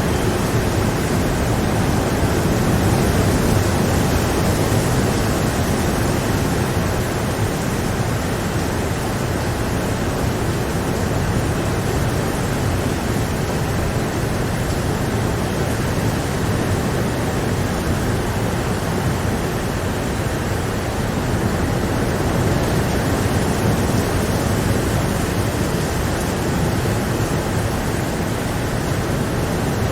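Steady rain, an even dense hiss that holds at one level throughout.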